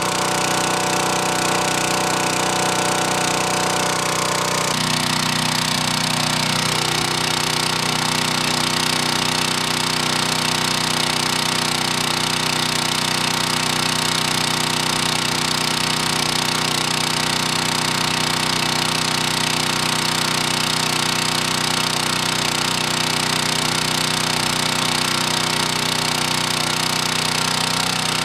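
Log splitter's small gas engine running steadily; its tone changes about five seconds in and then holds steady.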